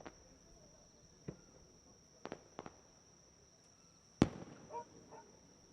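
Fireworks shells bursting overhead: six sharp bangs at irregular intervals, two close together about 2.3 s in, the loudest about 4.2 s in, followed by a short echoing rumble. A steady high-pitched tone runs underneath.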